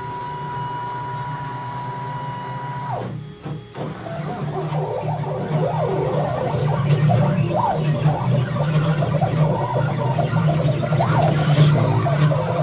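CNC machine's stepper motors whining as it drives a drag knife through rigid foam board: a steady whine for about three seconds that drops in pitch and stops, then from about four seconds a busier whine that keeps rising and falling in pitch over a low hum as the axes trace the cut. The knife's Z depth is set too deep, so it is cutting too much.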